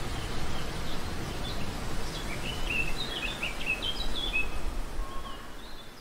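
A small bird twittering in a quick run of short, high chirps for a few seconds, over a steady background hiss.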